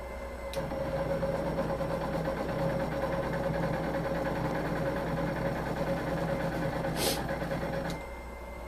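Butterfly embroidery machine stitching, a fast steady mechanical chatter that starts about half a second in and stops abruptly about a second before the end, with a short hiss just before it stops.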